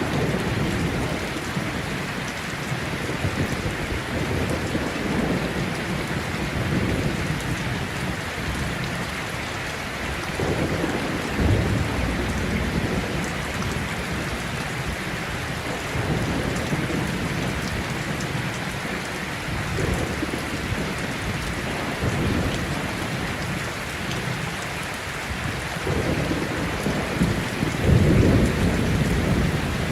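Heavy rain falling steadily, with low rolls of thunder rumbling in and out several times, the loudest near the end.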